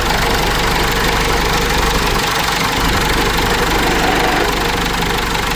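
Cummins 4BT four-cylinder diesel engine in a Case 586E forklift, running steadily at a loud, even level just after being cranked up following a rebuild.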